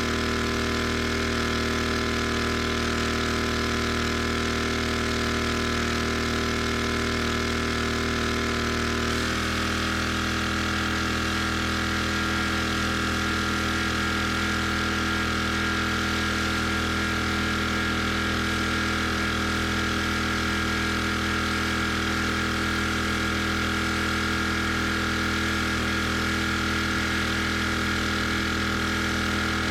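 Gas engine of a pressure washer running steadily. Its note shifts about nine seconds in and then holds steady again.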